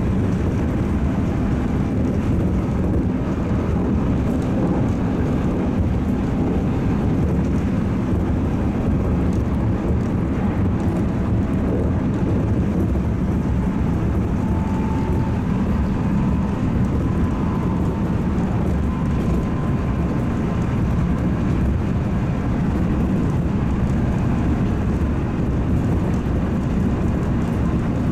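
JR Central 211 series electric train running at speed, heard from inside a car: a steady rumble of wheels on rail and traction motor noise.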